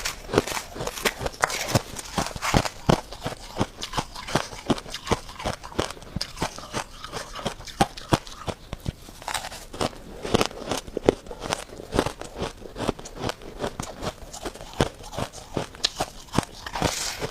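Someone biting and chewing freezer frost: a fast, irregular run of crisp crunches.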